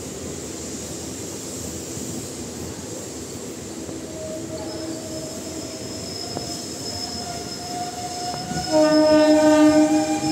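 Train running along the track, heard from inside a coach at the window, with a steady rumble of wheels on rail. A thin metallic squeal that rises slightly in pitch starts about halfway through. Near the end a loud train horn blasts for about a second and a half.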